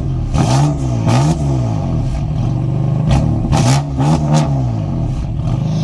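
High-performance car engine idling and then blipped: two quick revs, a pause, then two more, the pitch rising and falling with each.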